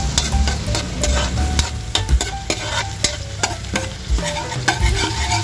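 Minced garlic sizzling in melted butter in a wok while a spoon stirs it, with many sharp clicks and scrapes of the spoon against the pan.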